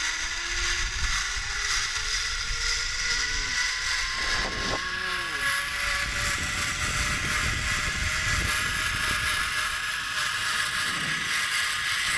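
Zipline trolley pulleys running along the steel cable, with a whine that rises in pitch over the first few seconds and then holds steady, over the rush of wind on the microphone.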